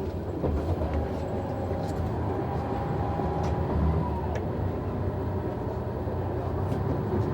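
Noto Railway NT100 diesel railcar's engine and cab noise: a steady low rumble with a few faint clicks, and a faint steady tone for a couple of seconds midway.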